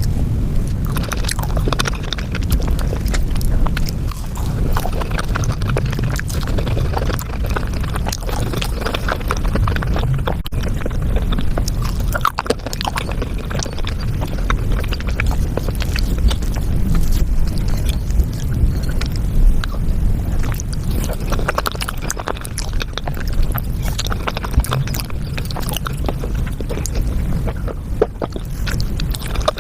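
Close-miked eating sounds, chewing and wet mouth clicks, played at five times speed so they run together into a dense, rapid chatter of clicks and smacks.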